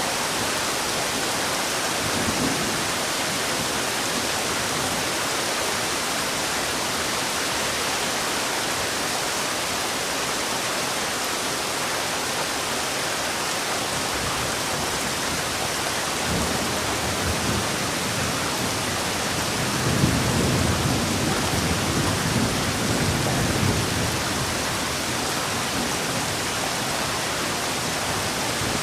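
Heavy rain falling steadily as an even hiss. Low rumbles swell up under it a few times, the loudest about two-thirds of the way through.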